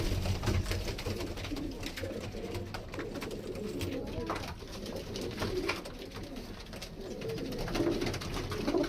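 Domestic pigeons cooing in a small enclosure, the low warbling coos coming and going and strongest near the end, with a few faint clicks.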